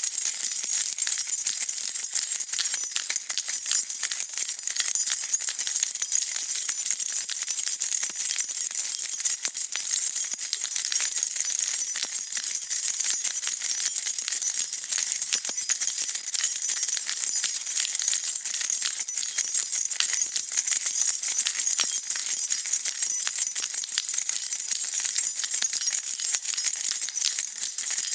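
A bunch of keys shaken steadily, jingling and clinking without pause.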